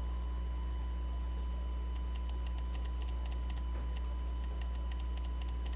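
Computer keyboard typing: irregular quick key clicks start about two seconds in and continue, over a steady low electrical hum.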